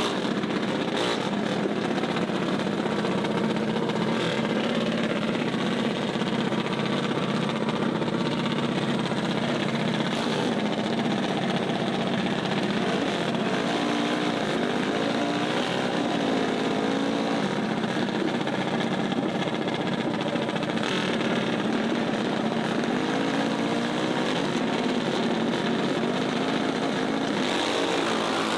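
Mini bike engines running steadily, with a constant low hum and the pitch wavering up and down now and then.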